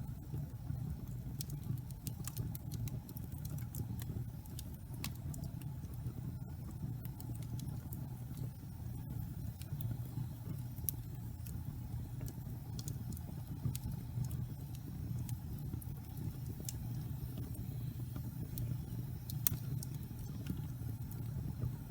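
Wood fire burning in a fireplace: a steady low rumble of the flames with scattered sharp crackles and pops from the logs, one louder pop near the end.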